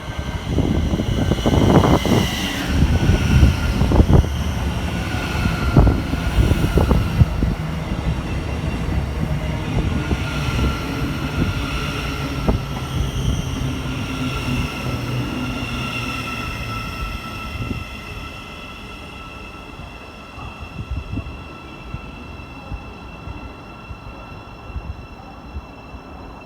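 A train running through the station: heavy wheel rumble with sharp knocks over the rail joints, and a high steady whine that sinks slightly in pitch. It fades away over the second half.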